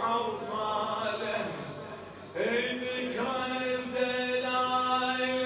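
A male radood chanting a Shia mourning lament in long, drawn-out melodic phrases. One phrase fades about two seconds in, and a new held phrase begins straight after.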